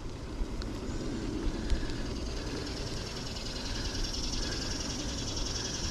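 Wind rumbling on a chest-mounted action camera's microphone and bicycle road noise during a ride, with a steady hiss that grows louder in the second half.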